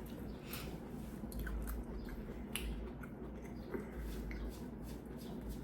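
Close-up eating sounds: a person chewing and biting food, with scattered small wet clicks and squishes.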